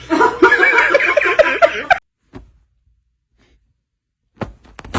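A person laughing hard in quick repeated bursts for about two seconds, cut off suddenly, followed by silence and a few short clicks near the end.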